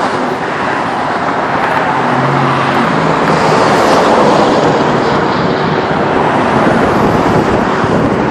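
Steady loud road noise of freeway traffic: tyres and engines of passing vehicles in a continuous rush.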